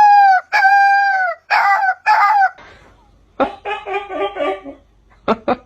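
A series of loud, high-pitched animal cries, several held for about half a second and dropping in pitch at the end. About halfway through they give way to a rougher, choppier run of calls, with a few sharp clicks near the end.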